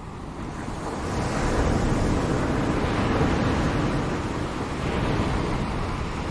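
Ocean waves breaking on a shore, the surf swelling about a second in, holding through the middle with a second surge, then easing off near the end.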